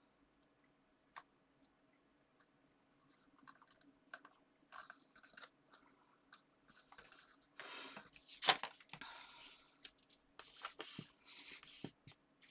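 Paper and card being handled on a tabletop: scattered small clicks and short rustling, scraping sounds that grow busier in the second half, with one sharp tap about eight and a half seconds in.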